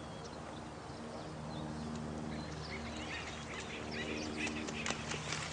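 Nighttime nature soundscape: birds calling in short chirps over a steady wash of running water and a low steady hum, with a quick flurry of clicks and calls near the end.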